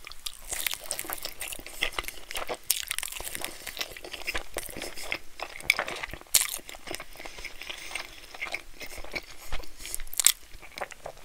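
Close-miked chewing of a mouthful of cheesy bread: a steady run of small, sharp mouth clicks and smacks.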